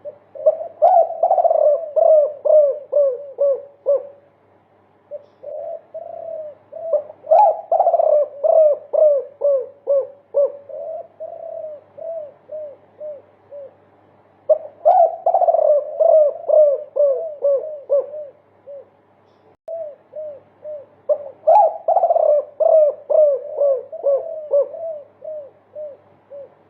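Derkuku dove singing a many-note 'multi kuk' coo. It gives four long bouts of quickly repeated coos, each a string of a dozen or more notes, with short pauses between the bouts.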